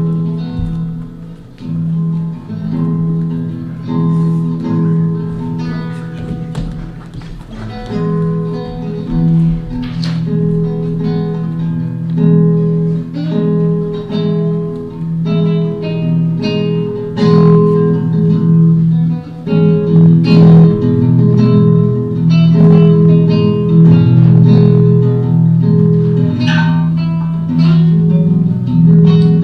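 Live guitar music: plucked notes ringing over held low tones, the playing getting gradually louder through the passage.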